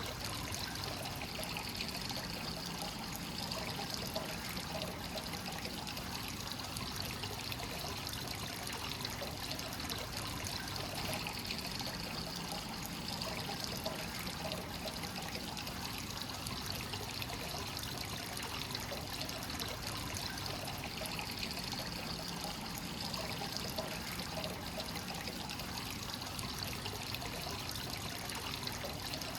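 Free-flowing hot-spring water pouring steadily into a bath: a continuous trickling and splashing with no pauses.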